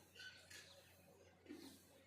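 Faint birdsong at dawn: several short, high chirps in the first second, then a brief low call about one and a half seconds in.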